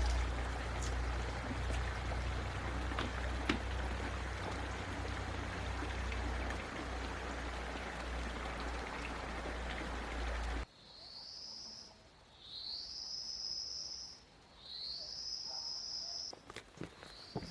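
Rushing stream water with a heavy low wind rumble on the microphone. About ten seconds in it cuts off abruptly to a quieter scene, where a high-pitched call repeats about every two seconds, each call sliding up and then holding for about a second and a half.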